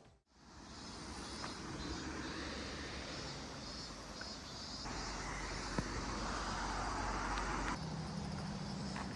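Steady outdoor background noise with no clear single source, changing abruptly about five and about eight seconds in.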